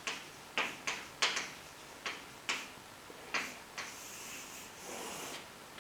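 Handwriting strokes on a writing surface: about ten short, sharp taps and scratches at an uneven pace, with one longer scratching stroke a little before the end.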